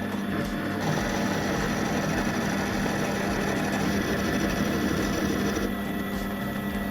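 Small power tool motor running steadily with a hum, working on material. A brighter hiss joins about a second in and eases near the end.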